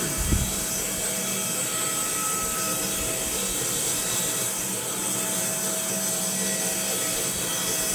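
Woodlands Mills HM126 portable bandsaw mill running steadily while sawing a log, an even machine noise with a faint steady hum through it. A low knock comes right at the start.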